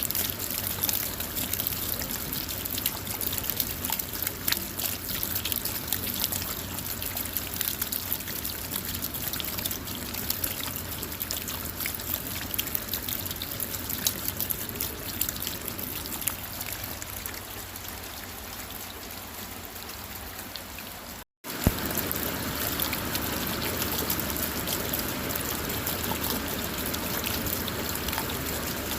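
Steady rain falling on a car, with many separate drops ticking through an even hiss of water. About two-thirds of the way through the sound cuts out for an instant, then carries on slightly louder.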